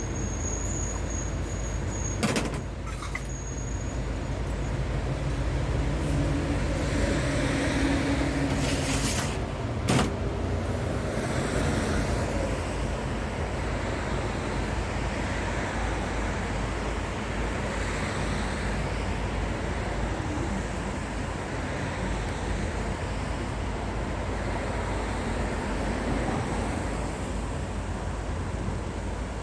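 Generator engine running steadily, with a few sharp knocks about two, three and ten seconds in.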